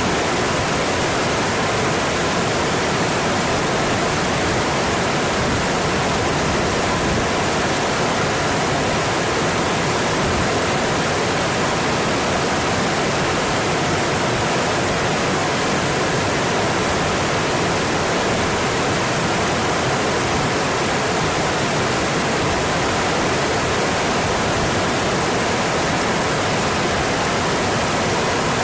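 A mountain stream flowing, a steady, even rush of water that never changes.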